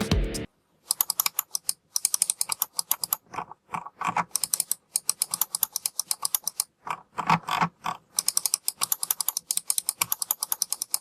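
Computer mouse clicking rapidly in runs, with a few short sliding drag sounds between the clicks.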